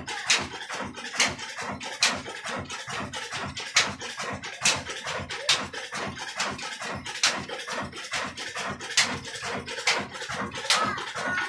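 Old Ruston Hornsby diesel engine running a chakki flour mill: a steady fast clatter with a sharp knock a little more often than once a second.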